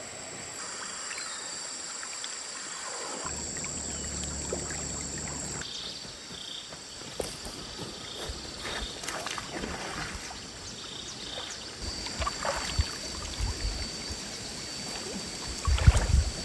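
Stream water running, with scattered splashes and knocks that grow busier, ending in a cluster of louder low thumps near the end.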